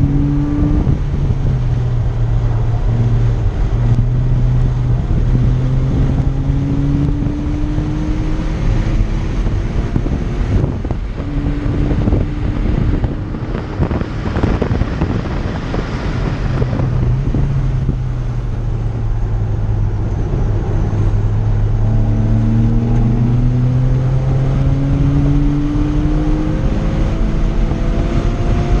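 Porsche Cayman R's flat-six engine pulling hard through the gears, its pitch climbing and dropping back at each upshift. Around the middle the engine note falls away for several seconds under wind and road noise before it climbs again.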